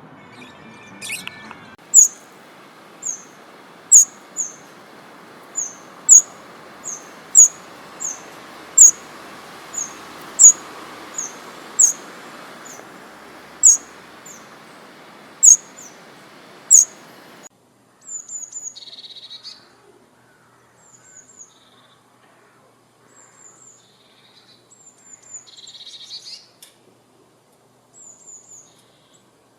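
Small birds chirping: short, sharp, high chirps repeated about once or twice a second over a steady background hiss. About two-thirds of the way through, the hiss cuts off abruptly, and the chirps become fainter and sparser.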